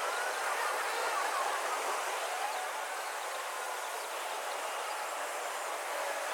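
Steady outdoor background hiss with faint, short gliding chirps, such as distant birds; no pop or click is heard.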